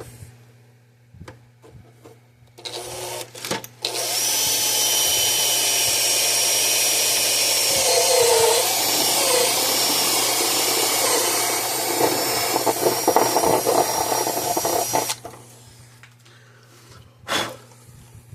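Power drill boring a mounting hole in the case: a short burst about three seconds in, then a steady run of about eleven seconds, its pitch wavering under load partway through, that stops suddenly. A single knock near the end.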